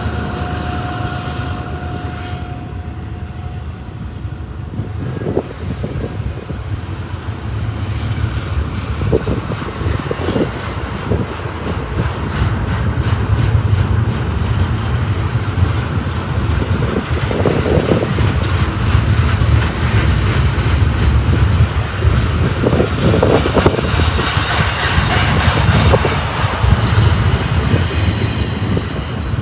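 BNSF intermodal freight train rolling past with a steady deep rumble and wheels clicking over the rail joints, growing louder and hissier in the second half.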